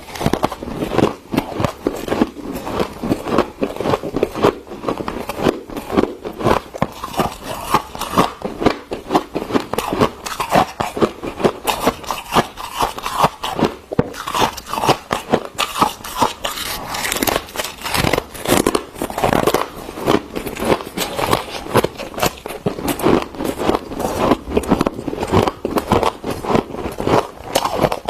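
Freezer frost crunching: a dense, uneven run of crisp crunches, several a second without a break.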